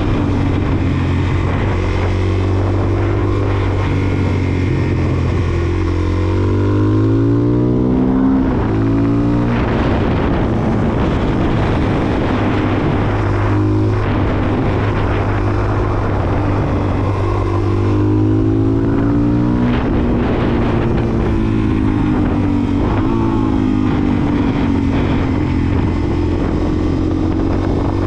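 Suzuki DR-Z400SM's single-cylinder four-stroke engine running under way, over a steady rush of noise. Its pitch climbs sharply about seven seconds in and again near twenty seconds, each rise ending in a drop as the bike shifts gear.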